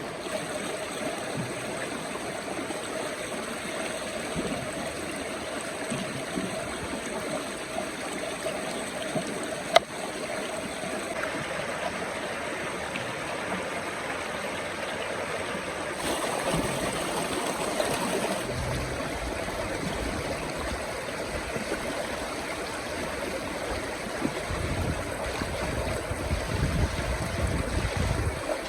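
A stream flowing steadily, with a single sharp knock about ten seconds in.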